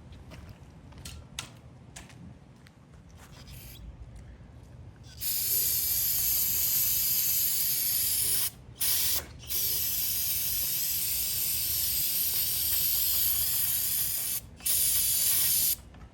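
Aerosol can of brake cleaner spraying in long bursts: a loud, steady hiss starting about five seconds in, broken three times by brief pauses. Faint clicks and rubbing come before it.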